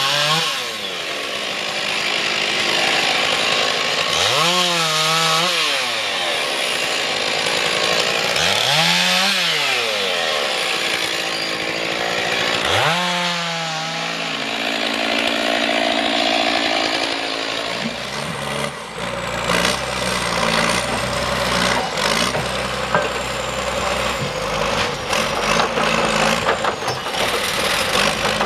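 Chainsaw cutting wood, its engine revving up and dropping back about every four seconds between cuts. About two-thirds of the way through, a heavy diesel machine takes over, running low with a clatter of knocks.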